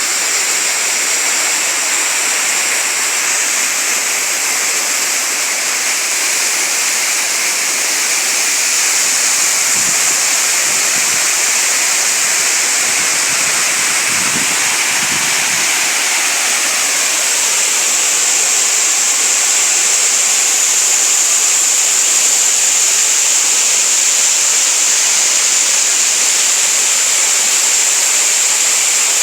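Small waterfalls and a stream of running water: a steady, unbroken hiss of falling and flowing water.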